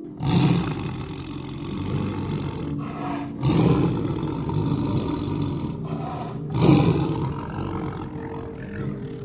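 Lion roaring and growling, three deep calls a few seconds apart, each starting loud and trailing off.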